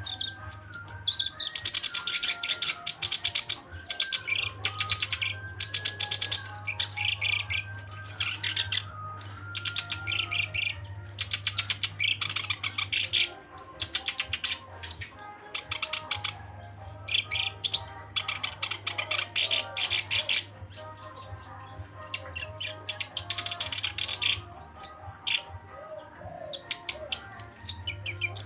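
Black-browed reed warbler singing: repeated bursts of rapid, chattering high notes lasting a few seconds each, with short pauses between them, over a steady low hum.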